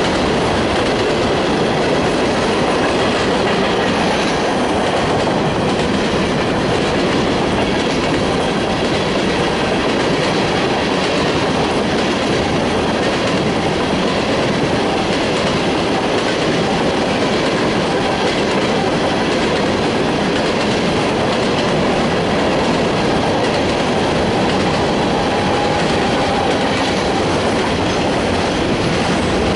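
Freight cars of a mixed freight train (tank cars, then autoracks) rolling past close by: a steady, unbroken noise of steel wheels on the rails.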